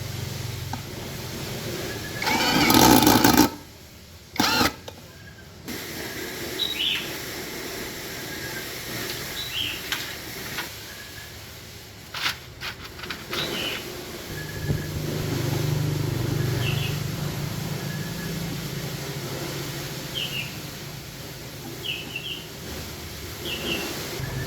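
Small grass-trimmer engine being started: a loud burst a few seconds in, then from about fourteen seconds it runs with a steady low hum. Birds chirp briefly several times.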